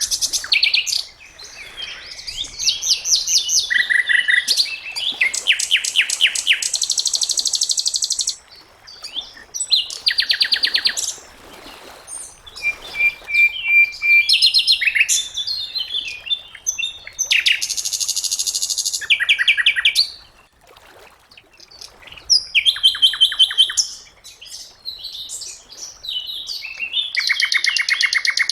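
Sikatan londo, a small songbird, singing: bouts of rapid, high-pitched trills and chattering phrases, each a second or two long, with short pauses between.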